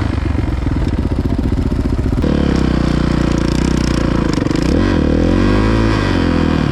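Dirt bike engine running under way, loud and continuous, with the revs rising and falling through the second half.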